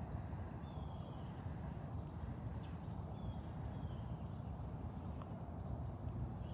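Outdoor ambience: a steady low rumble, with a few faint, short, high falling chirps from birds scattered through it.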